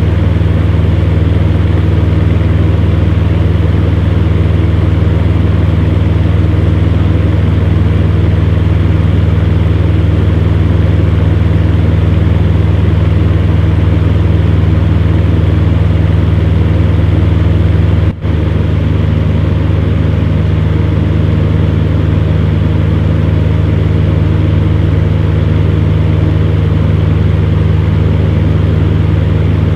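Electric fan heater running: a steady low hum over an even rushing noise, with a momentary break about eighteen seconds in.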